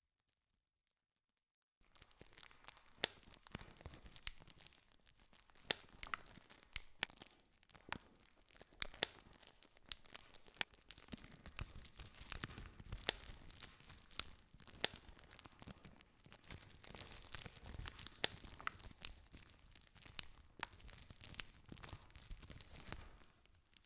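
Campfire crackling: a steady hiss full of sharp snaps and pops from burning wood. It comes in abruptly after about two seconds of dead silence and cuts off just before the end.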